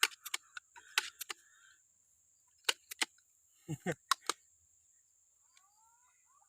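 Irregular clusters of sharp clicks and knocks, a handful in the first second or so and another group around the middle, over a steady thin high whine. A faint rising call near the end.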